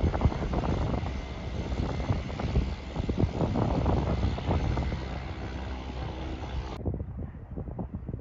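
Light propeller airplane's engine running, partly buried under gusty wind buffeting on the microphone.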